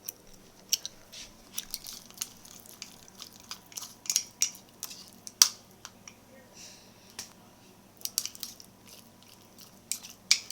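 Thick cookie dough with chocolate chips being stirred in a cup, the utensil making irregular clicks and scrapes against the cup and wet, sticky squishes.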